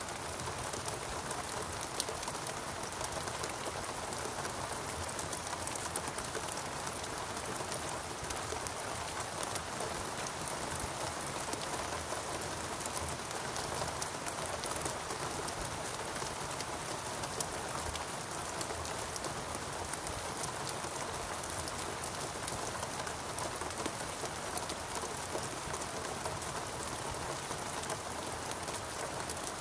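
Steady rain falling on foliage and ground, a dense even hiss with many small drop ticks and the odd louder drip.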